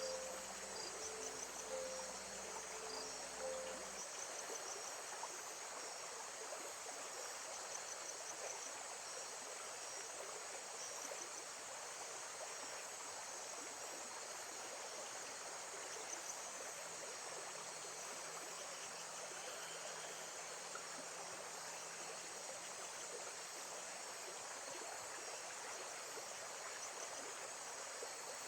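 Nature soundscape of steadily running water with crickets chirping in repeated high trills. Soft guitar music plays at first and stops about four seconds in.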